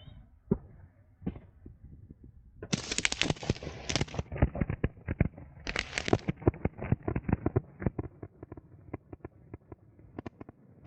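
Fireworks going off: a few separate bangs, then two dense bursts of rapid crackling about three and six seconds in, trailing off into single pops that come further and further apart.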